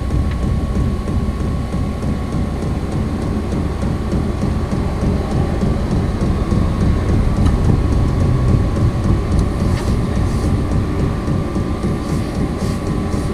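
Vevor 5 kW diesel air heater in its start-up cycle: the blower running loud and steady with a heavy rumble and a thin whine that creeps up in pitch about halfway through, sounding like a jet engine fixing to take off.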